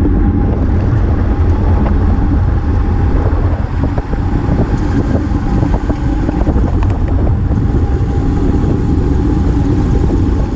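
Steady wind buffeting an action camera's microphone on a road bike riding at race speed.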